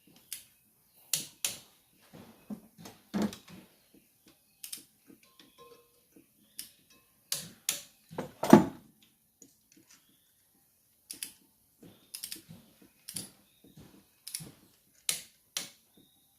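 Irregular metallic clicks, clinks and knocks of hand tools and engine parts being handled during an engine reassembly, with quiet gaps between them and one louder knock about eight seconds in.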